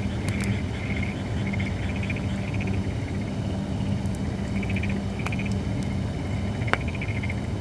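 Holly firewood burning in a fire pit, over a steady low rumble, with a few sharp crackling pops, the loudest near the end. A repeated pulsing trill sounds in the background.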